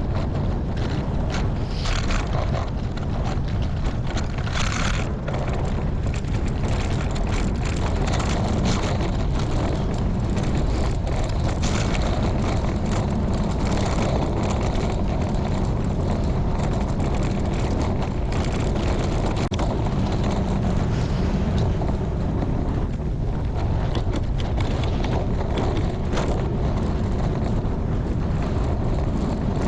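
Strong wind buffeting the microphone of a bike-mounted camera while cycling into a headwind: a steady, loud low rumble with a hiss over it.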